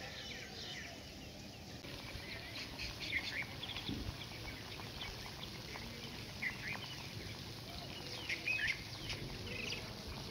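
Small birds chirping: many short, high calls scattered throughout, with louder clusters about three seconds and eight seconds in.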